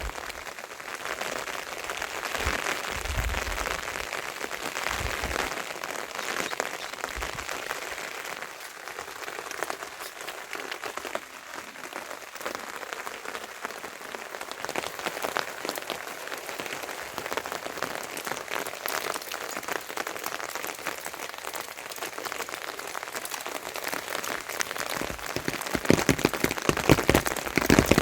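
Rain falling steadily, a dense patter of drops that grows heavier and louder near the end.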